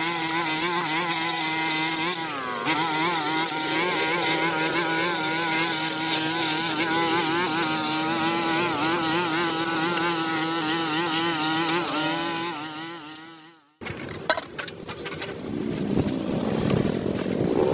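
A small engine running steadily, its pitch wavering slightly. It fades out about 14 seconds in, and after a break a rougher engine noise follows with scattered clicks and knocks, its pitch rising near the end.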